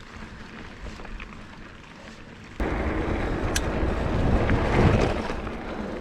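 Mountain bike rolling over a dirt trail, with tyre rumble and wind buffeting the microphone. It gets suddenly louder about two and a half seconds in as the pace picks up, then eases off near the end.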